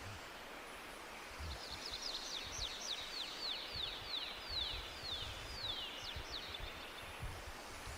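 A songbird singing a long series of quick, high, falling notes, about three a second, starting a second and a half in and lasting about five seconds, over a steady hiss of forest background.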